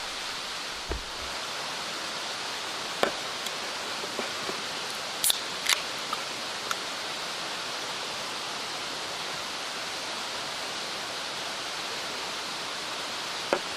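Steady rush of a mountain stream flowing close by, with a few sharp clicks and taps scattered through it.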